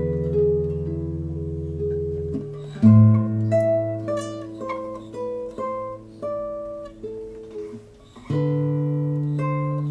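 Solo instrumental improvisation on a plucked string instrument. A held low chord rings for about two seconds, then a run of single plucked notes, each dying away, and a low chord sounds again near the end.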